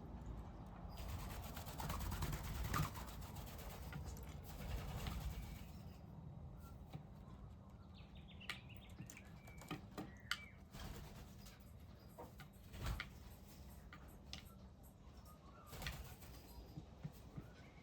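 Wild birds at a bird bath: a stretch of wing flapping and fluttering, then a few faint chirps and light clicks.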